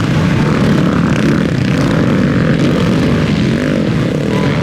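Several motocross bikes racing at once, their engines revving up and down in overlapping waves of pitch.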